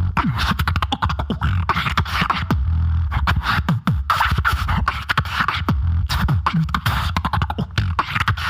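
Live solo beatboxing through a microphone: rapid-fire mouth clicks and snare-like hits over a sustained deep bass hum. Downward-sliding bass sweeps recur throughout.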